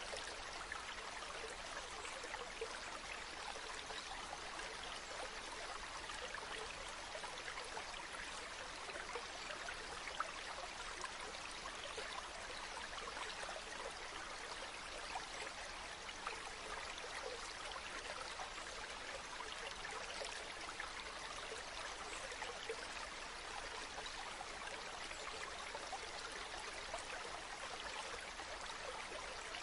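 Stream babbling steadily, with a few small sharp pops scattered through it.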